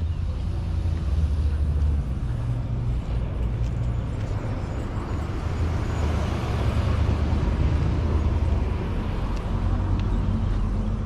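A car engine running with a low, steady rumble; the noise swells about halfway through, then eases.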